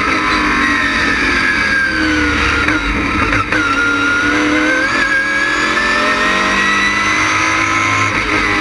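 LS6 V8 of a GTA stock car running hard on track. Its pitch falls for about three and a half seconds off the throttle, breaks briefly, then climbs steadily under acceleration.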